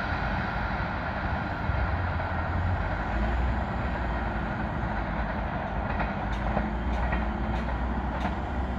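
Passenger train hauled by an EP2K electric locomotive rolling away down the track: a steady low rumble of wheels on rail, with a few light clicks near the end.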